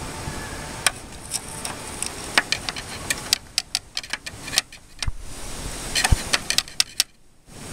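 Hand tools working on a car: irregular sharp clicks and knocks, several a second in places, over a steady hiss. The sound drops out briefly near the end.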